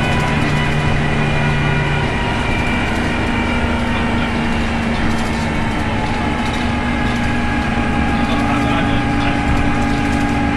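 Optare Tempo single-deck bus running under way, heard from inside, its engine giving a steady howling whine over the drivetrain rumble. The howl shifts in pitch about two seconds in and again about six seconds in, following changes in road speed and engine speed. This howl is the unusual noise the bus is known for.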